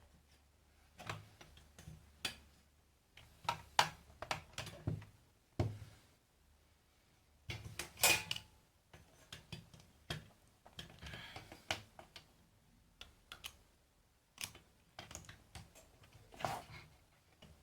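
Scattered light clicks and knocks at irregular intervals, with a sharper knock about eight seconds in, from handling a satellite receiver and its series-lamp test lead as it is powered up.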